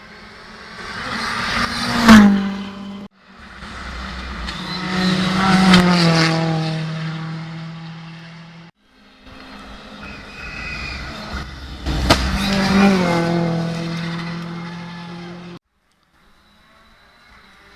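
Ford Fiesta R5 rally car's turbocharged four-cylinder engine at full throttle, passing three times in spliced clips: each pass builds to a loud peak and then drops in pitch as the car goes by. A sharp crack sounds at two of the passes.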